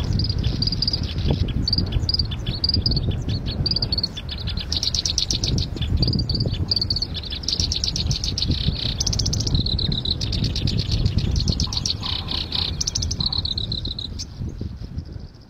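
A small songbird singing in rapid runs of high chirps and fast trills, over a steady low rumble; the sound fades out near the end.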